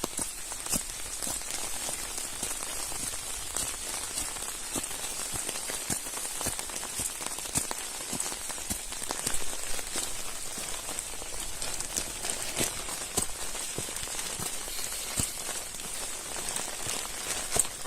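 Steady rain falling, a continuous hiss scattered with many separate drops ticking sharply.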